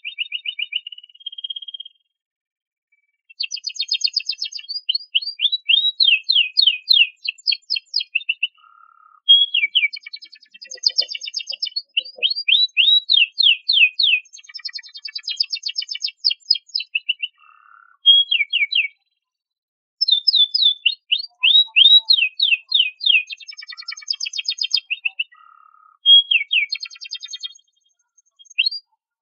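Canary singing in long phrases of fast repeated notes and trills, with short pauses about two seconds in and again near the middle.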